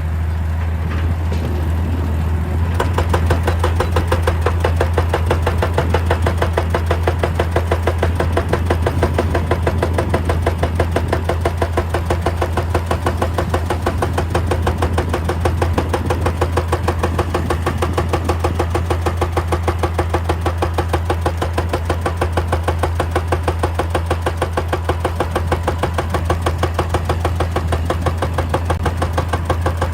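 Excavator-mounted hydraulic breaker hammering rock in a rapid, even rhythm over the steady drone of the excavator's diesel engine. The hammering settles into its regular beat about two and a half seconds in.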